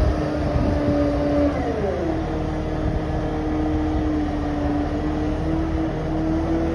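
Fire truck engine running steadily. About two seconds in, its pitch glides down and it settles at a lower speed.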